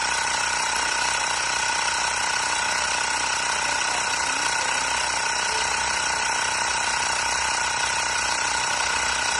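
Xiaomi Mi portable electric air compressor (tyre inflator) running steadily, its small motor-driven piston pump giving an even, buzzing rattle with a high whine.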